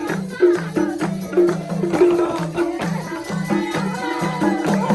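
Live Nepali dohori folk music: a steady, repeating low percussion rhythm alternating between two pitches, with a melody line weaving over it in the second half.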